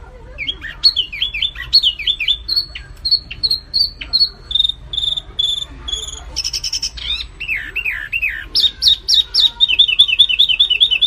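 Songbird singing a loud, varied song of quick chirps and short clear whistled notes, with a rapid run of repeated notes near the end.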